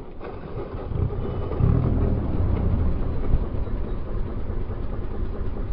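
Motorcycle riding noise: an engine running steadily under wind and road noise.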